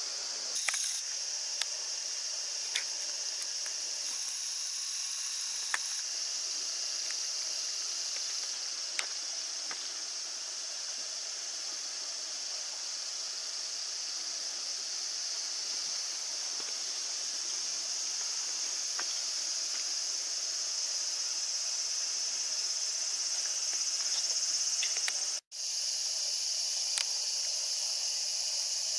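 Cicadas: a chorus of summer cicadas making a steady, high, hissing drone, with a brief dropout about three-quarters of the way through.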